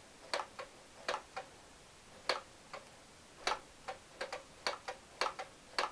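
Light, irregular clicks and taps of small metal parts being handled, about fifteen in all, uneven in spacing and strength, as a motorcycle's control cables and fittings are checked by hand.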